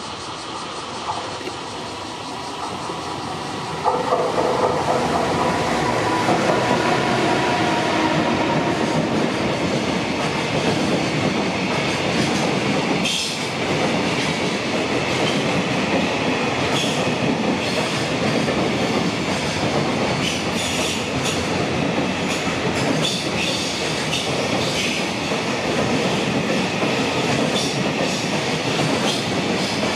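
JR Freight EF210 electric locomotive hauling a container freight train past at close range. It grows suddenly louder about four seconds in, with a few seconds of steady whining tones as the locomotive goes by. The container wagons then rumble past steadily, clattering over the rail joints with occasional wheel squeals.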